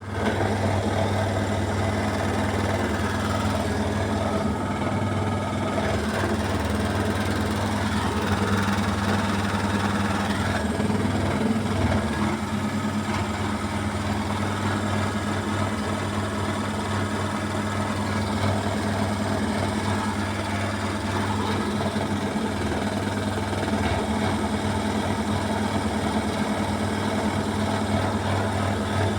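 Beko WMY81283LMB2 washing machine spinning at high speed, its motor and drum running with a steady hum and a loud rattle from an unbalanced load.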